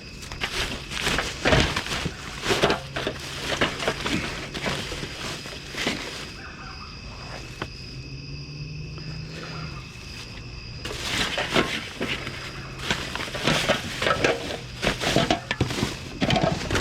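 Rummaging through a plastic trash bag: irregular crinkling and rustling of plastic, with knocks of items inside. It goes quieter for a few seconds in the middle, then picks up again.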